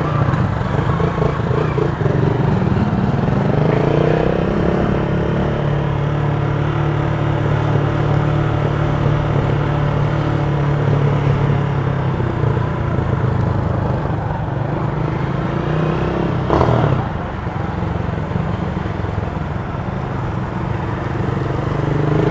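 Motorcycle engine running steadily while riding, with road and wind noise. The engine note lifts slightly a few seconds in, and there is a brief clatter about sixteen seconds in.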